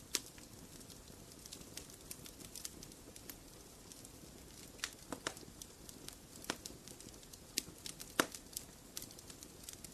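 Wood fire crackling in a fireplace: irregular sharp pops and snaps over a low steady hiss, with the loudest pop about eight seconds in.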